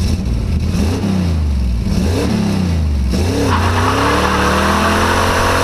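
Vehicle engine revving up and down a few times, then held at steady higher revs with a rushing hiss from about three and a half seconds in.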